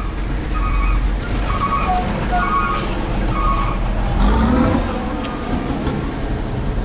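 Road traffic running steadily, with a series of short horn beeps about a second apart in the first few seconds.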